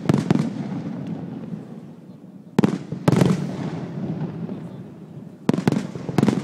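Aerial firework shells bursting in three clusters of sharp bangs, about three seconds apart. Each cluster trails off in a long rumbling echo.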